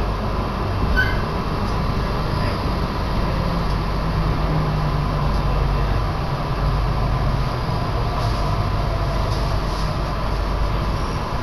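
Electric commuter train running, heard from inside the carriage: a steady rumble of wheels and running gear, with a low hum coming in for a few seconds in the middle.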